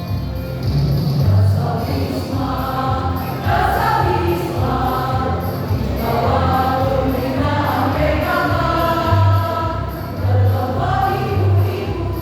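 A choir singing with musical accompaniment that has a steady low beat.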